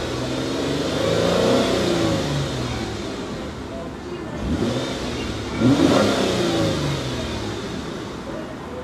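2002 Chrysler Sebring Limited Convertible's 2.7-litre V6 revved twice in park, heard from the driver's seat. The pitch rises to a peak about a second and a half in and falls back. A sharper rev then climbs near the middle and falls away toward the end.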